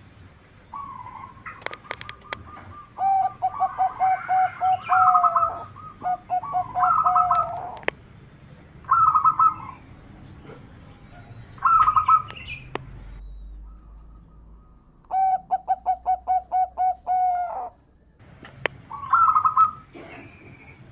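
Zebra dove (perkutut) cooing in repeated phrases, each a quick run of short staccato coos, several of them long trills of eight or more notes, with short pauses between phrases.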